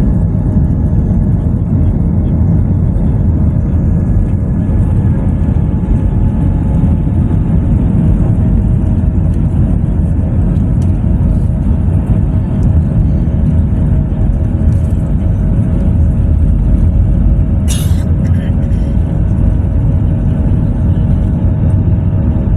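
Airliner taking off: a loud, steady low rumble of engines and rolling, with faint steady tones above it and a brief click about eighteen seconds in.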